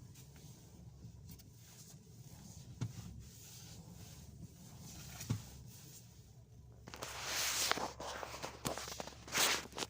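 Dull knocks, a few seconds apart, from the front running gear of a Skoda Octavia A7 over a steady low hum, the knock that shows up only with the steering turned right nearly to full lock and is gone with the car raised on a lift. Two louder rushing, rustling stretches come in the second half.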